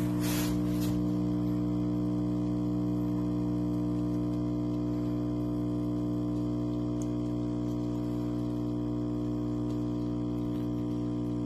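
A steady electrical hum made of several held tones at an even level, with a brief noisy rustle just after the start.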